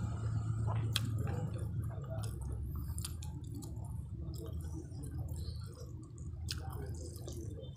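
Close-up wet chewing and squishing mouth sounds of a person eating rice by hand, with a few sharp clicks, over a steady low hum.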